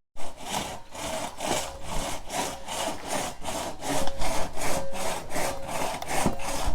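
Hand saw cutting through a fallen tree trunk in quick, even back-and-forth strokes, about four a second.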